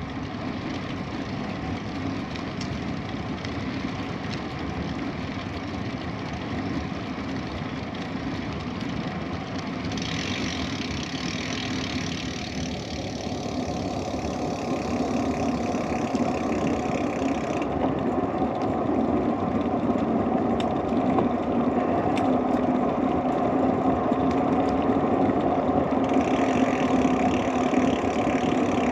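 Steady rolling noise of a bicycle ride: tyres on the road and wind on the microphone, getting louder from about halfway through.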